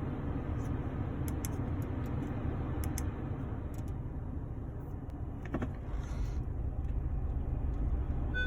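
Steady low rumble of an Audi A6 C7 heard inside the cabin, with a few faint light clicks and one short creak about five and a half seconds in, which the owner puts down to the steering rack.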